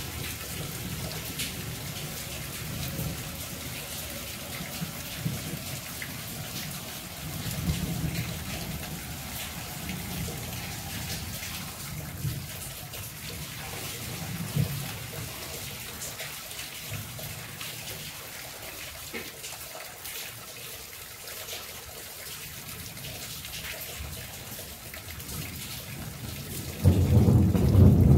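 Monsoon rain falling steadily: a hiss with scattered drips, and low rumbles that swell and fade. Near the end, a loud rumble of thunder starts suddenly.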